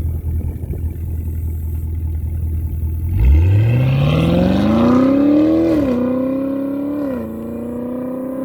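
2018 Camaro ZL1's supercharged 6.2 L V8 through an aFe cat-back exhaust: a low idle rumble, then about three seconds in it accelerates hard with a steeply rising note. The pitch drops twice as it upshifts, then holds steady as the car pulls away.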